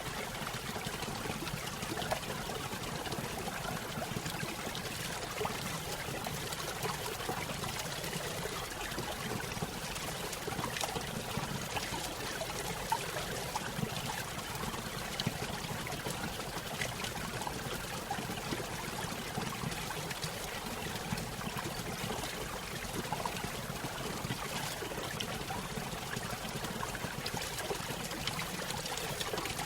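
Small stream spilling over a little waterfall: steady trickling and splashing water with small scattered drips.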